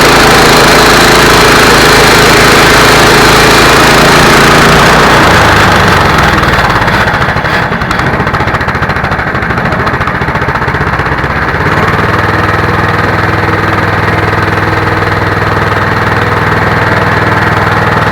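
Gas engine of a Central Machinery bandsaw sawmill running under load as the blade cuts through a walnut log. About six seconds in the loud, hissing cutting noise drops away and the engine note changes, and from about twelve seconds the engine runs on steadily.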